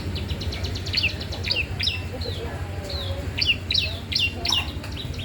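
A young cisem, a small cage songbird, singing continuously in rapid high chirps and quick down-slurred notes, over a steady low hum.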